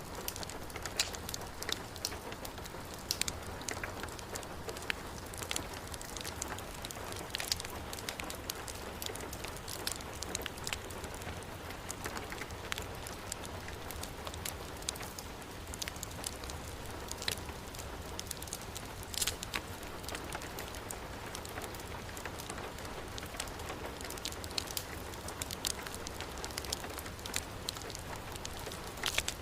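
Heavy rain falling steadily, mixed with a wood fire in a fireplace crackling, with sharp pops scattered throughout.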